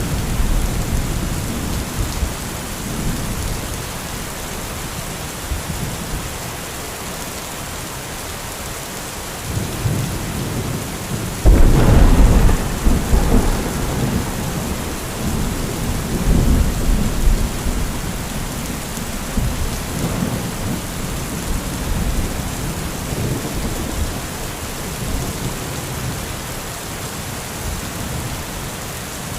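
Heavy rain falling steadily, with low thunder rumbling early on. About eleven seconds in a close thunderclap cracks suddenly and rolls on as rumbling for several seconds before dying away under the rain.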